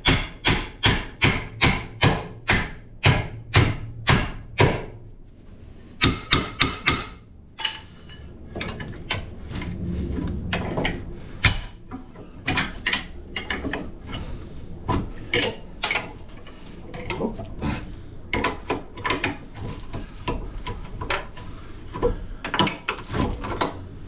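Hammer blows on the steel front suspension while freeing the lower control arm: a fast run of sharp strikes, about two to three a second, for the first few seconds, a few more a little later, then lighter irregular knocks and clinks of tools and metal parts.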